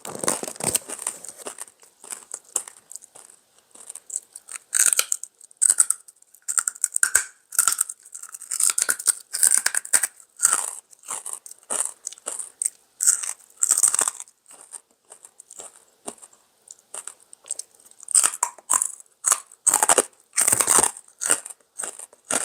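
A person chewing crunchy fried pork rinds (fatback skins) close to the microphone: irregular crisp crunches and bites, quieter for a couple of seconds past the middle, then loud crunching again.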